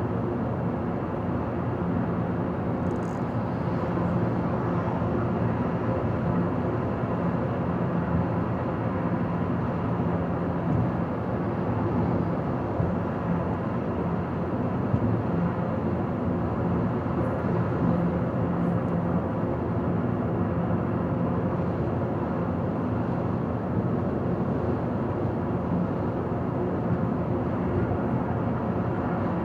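Car driving at highway speed: steady tyre, road and engine noise with a low even hum.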